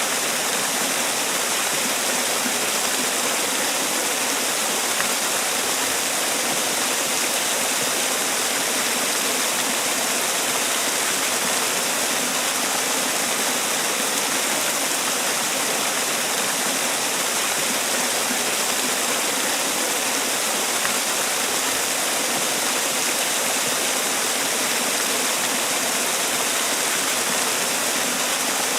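Man-made waterfall: water falling and splashing in a steady, even rush with no breaks.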